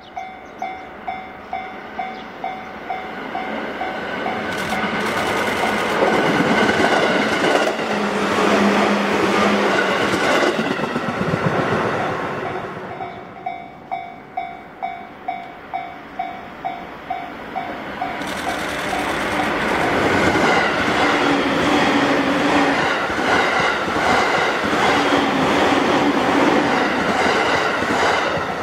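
A level-crossing bell clangs about twice a second, then a JR 205 series electric commuter train passes with a swelling rumble and wheel clatter over the rail joints. The bell rings again, and a second electric train, an E231 series, passes the same way.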